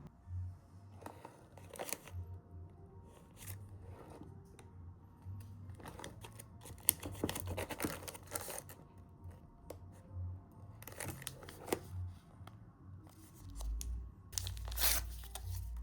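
Crinkly wrapping material being handled and torn in short, irregular strokes, over a steady low hum; a low rumble comes in near the end.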